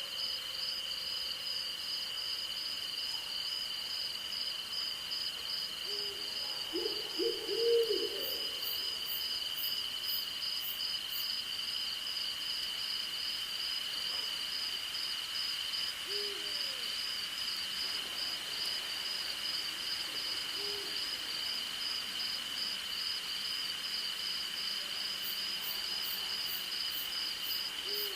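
Night insects, crickets among them, keep up a steady high trill, one voice of it pulsing rapidly, while an owl hoots: a quick run of low hoots about seven seconds in, the loudest sound, then single hoots spaced several seconds apart.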